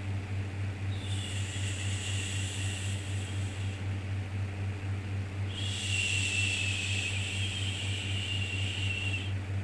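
Repeated soothing 'shhh' shushing sounds for calming a baby. Two long shushes, each about three to four seconds, with a short pause between them, over a steady low hum.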